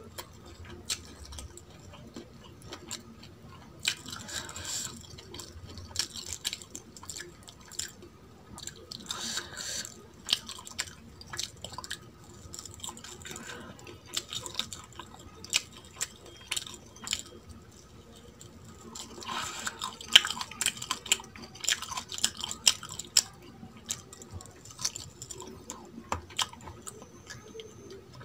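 Close-miked chewing of hand-eaten mutton bhuna and rice pulao, with many sharp wet clicks and occasional crunches. Noisier stretches come about four seconds in, around nine seconds, and for a few seconds past the middle.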